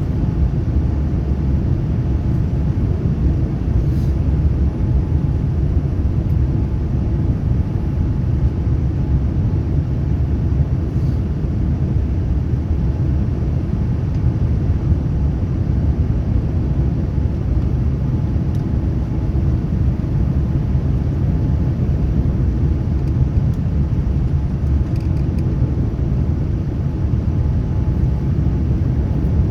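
Steady low rumble of cabin noise inside a Boeing 787-9 airliner, with a few faint clicks.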